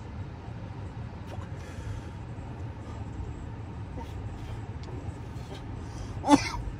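Steady low rumble of a car cabin's engine and road noise, with a single loud cough about six seconds in.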